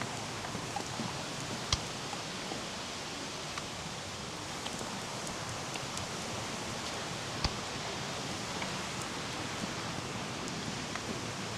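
Steady rushing of running water from a mountain stream or waterfall, with a few scattered sharp clicks over it.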